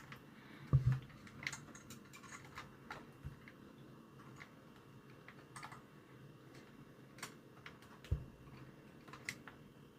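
Scattered small clicks and light taps of the radio alarm clock being handled as its circuit board is pressed and bent, with a couple of slightly heavier knocks, about a second in and near the end.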